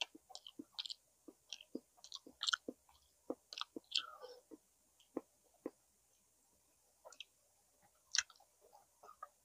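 Close-up mouth sounds of a person chewing food: irregular wet clicks and lip smacks, busy for the first few seconds and sparser after that.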